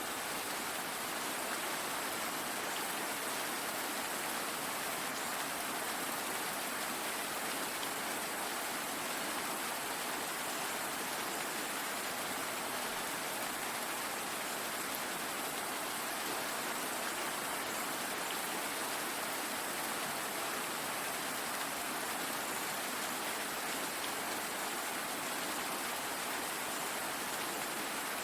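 Steady rainfall: an even hiss of rain with no change.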